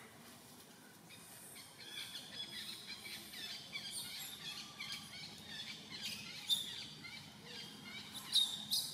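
Small birds chirping in the background: a dense run of short, quick, high calls that starts a couple of seconds in, with a couple of sharper, louder sounds near the end.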